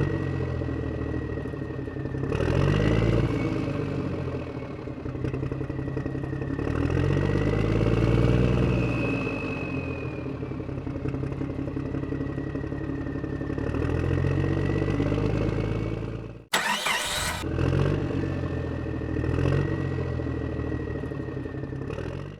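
An engine running and revving up and down about four times, with a steady high whine over it and a brief burst of noise about three-quarters of the way through.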